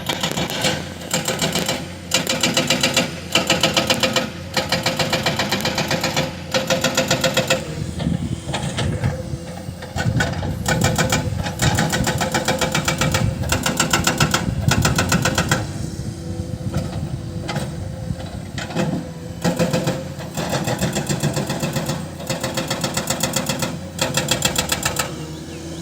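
Excavator-mounted hydraulic breaker hammering rock in rapid runs of blows, each run a few seconds long with brief pauses between, over the excavator's diesel engine running steadily.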